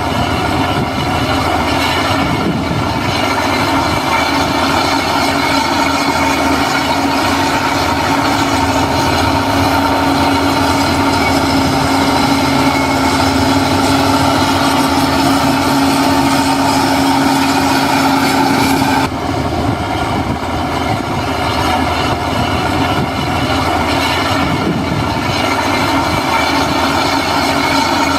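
Diesel engine of heavy earthmoving machinery running steadily, with a steady whine over it. About two-thirds of the way through the sound changes abruptly as the higher tones drop away.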